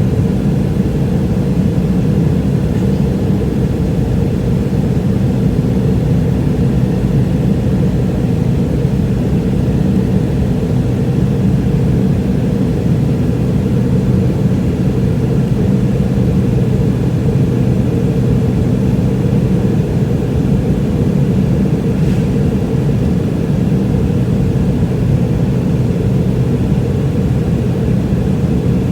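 Steady drone inside the cabin of a McDonnell Douglas MD-88 airliner: its rear-mounted Pratt & Whitney JT8D turbofans and airflow give an even, loud low rumble.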